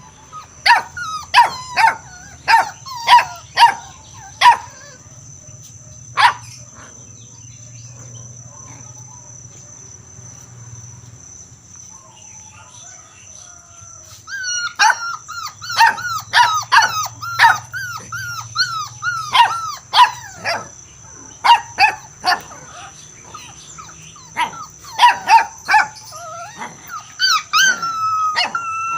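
A dog barking in quick runs of sharp barks. It pauses for several seconds midway, then barks again more densely, mixed with drawn-out whining yelps. A faint steady high-pitched whine runs underneath.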